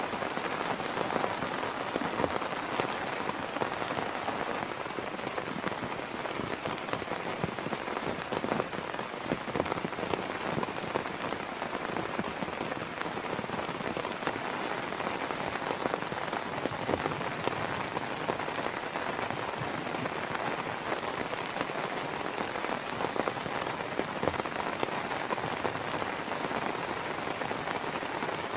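Heavy rain falling steadily, with many individual drops landing close by as sharp pats over the continuous hiss of the downpour.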